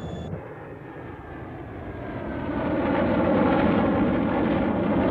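Aircraft engine approaching and growing steadily louder from about two seconds in, with a slowly falling whine, as the plane comes in to land.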